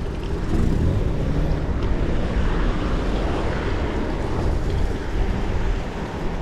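Wind rushing over the microphone of a bike-mounted action camera while riding, with a low rumble of road noise.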